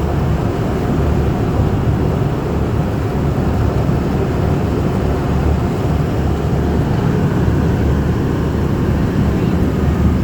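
Amphibious duck boat's engine running steadily, a continuous low rumble as the boat travels.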